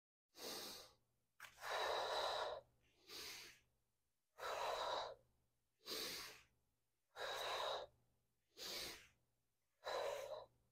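A woman's paced exercise breathing: four slow cycles, each a short quiet breath in followed by a longer, louder breath out, timed to bird dog reps (exhale to extend, inhale to come in).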